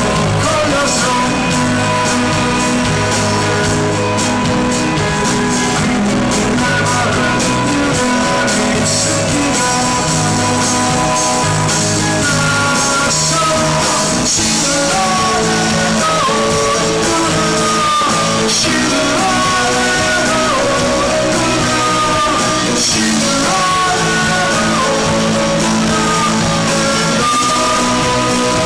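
Live rock band playing a song, with electric guitar, bass and drums and a singing voice; held, bending melody notes come to the fore partway through.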